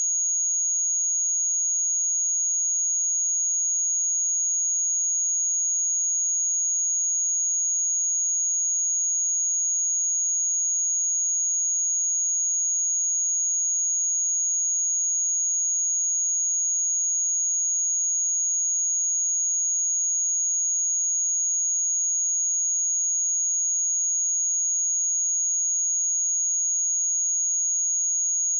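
A steady, pure 6664 Hz sine-wave test tone, one unchanging high-pitched note.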